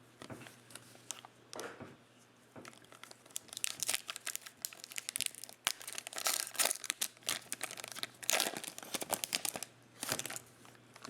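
Plastic trading-card pack wrapper crinkling and tearing as the pack is handled and opened, a run of sharp crackles that grows busy a few seconds in.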